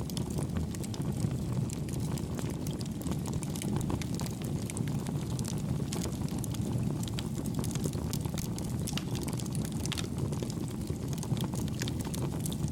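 Wood fire burning, a steady low rumble with frequent small crackles and pops.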